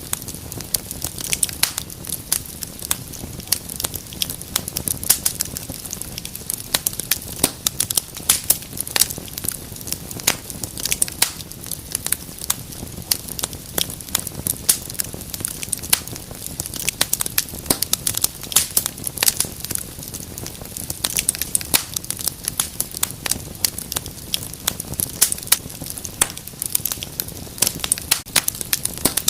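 Wood fire burning in a fireplace, crackling and popping continuously with many sharp snaps a second over a low steady rumble of the flames.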